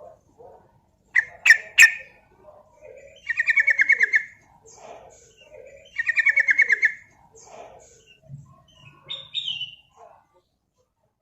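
Yellow-vented bulbul (trucukan) singing: a few sharp, loud notes, then two rapid bubbling trills about a second long each, with softer scattered notes between.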